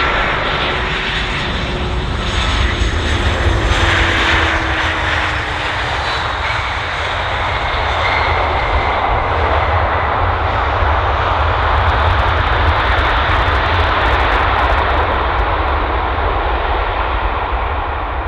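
Airliner engines running close by: a loud, steady rush with a whine that slides down in pitch over the first few seconds as the aircraft passes.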